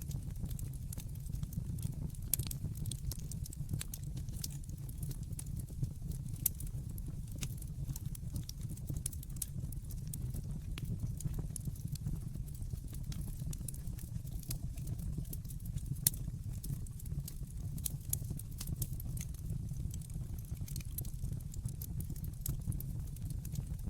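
Wood fire burning in a fireplace: a steady low rumble of flames with constant crackling and scattered sharper pops, the loudest about sixteen seconds in.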